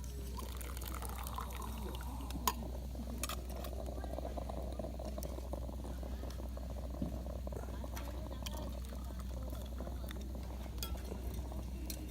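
Wood campfire crackling, with a steady hiss and scattered sharp pops, the loudest about two and a half seconds in.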